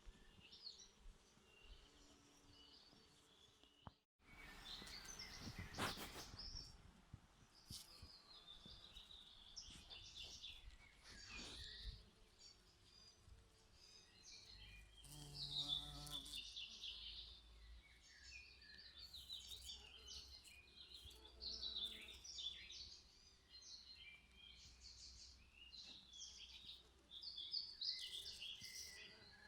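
Songbirds chirping and twittering in short, quick phrases throughout, quietly. A brief low buzz comes about halfway through.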